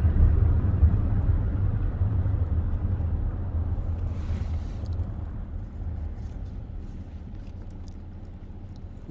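Car's engine and road noise heard from inside, a steady low rumble that gradually gets quieter as the car slows.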